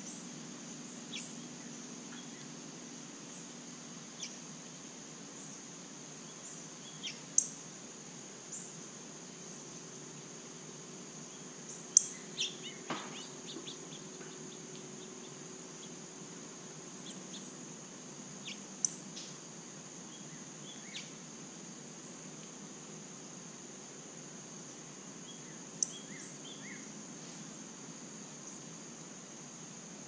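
A steady, high-pitched insect drone, with sharp single bird chip notes a few seconds apart and a brief flurry of calls about twelve seconds in.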